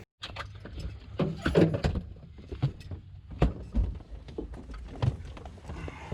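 Irregular knocks, clicks and rattles of handling, over a low steady hum.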